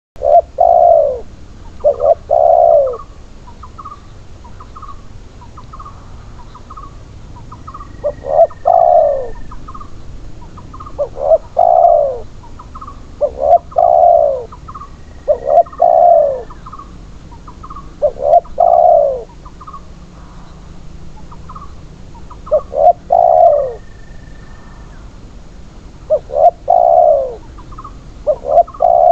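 Spotted doves (tekukur) cooing: loud, repeated coo phrases of falling notes, one every two to three seconds, with soft short higher notes between them.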